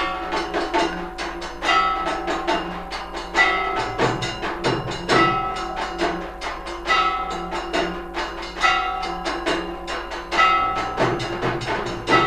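Temple aarti percussion: ringing bells and metal percussion struck rapidly over drum beats, in a steady rhythm with a heavy accent about every second and a half to two seconds.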